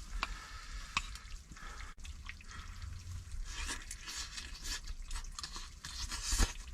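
Small clicks and scraping of things being handled, with a stretch of hissy rustle in the second half and one louder knock near the end.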